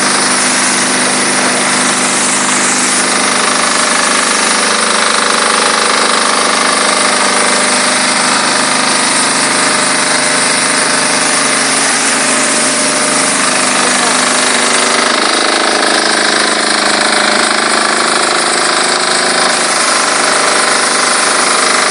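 Diesel-engine-driven high-pressure washer running steadily, its engine hum under the loud, even hiss of the pressurised water jet. The tone shifts slightly about fifteen seconds in.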